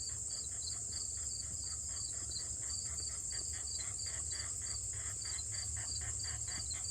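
Sandhill cranes calling back and forth in a long series of repeated notes, about four to five a second, over a steady high-pitched chorus of crickets.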